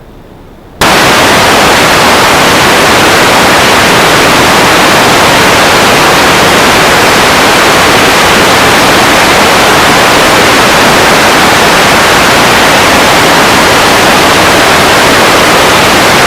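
Loud, steady white-noise static hiss that cuts in suddenly about a second in, the kind an analog FPV video receiver puts out when it has no signal.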